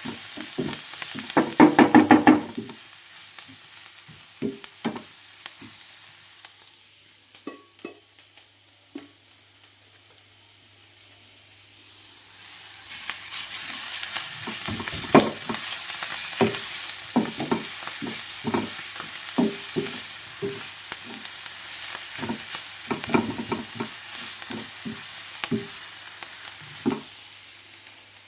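Food frying in a pan while a cooking utensil stirs it, knocking and scraping against the pan. There is a rapid run of loud knocks about two seconds in, and the sizzle grows louder from about halfway through.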